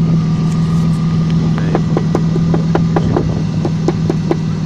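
A BMW 325i's straight-six engine running steadily at idle, with a run of light clicks through the middle.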